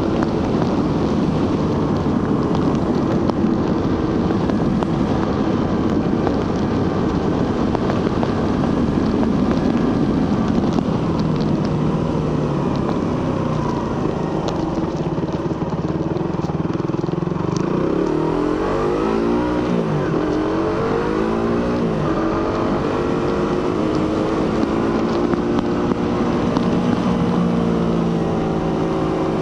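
Suzuki GSX-R150's single-cylinder 150cc engine through its stock exhaust, running under way with wind rush. About two-thirds of the way through, the engine pitch rises and drops several times in quick succession as the revs change through the gears, then settles into a steady lower note.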